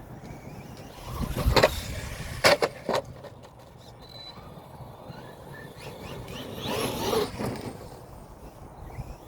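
Brushless Redcat Volcano EPX Pro RC monster truck being bashed: a burst of driving noise about a second in, then two sharp knocks of the truck hitting the ground, and another burst of driving near the seventh second.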